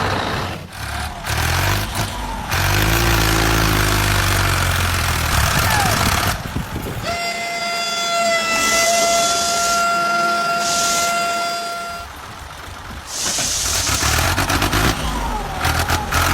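A vehicle engine running, broken by one long, steady horn blast of about five seconds in the middle, after which the engine sound carries on.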